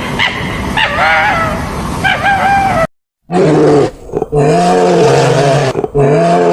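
High, wavering whining yelps, like a dog whimpering, stop abruptly about halfway through. After a moment's silence, a large animal gives three long, low calls in a row.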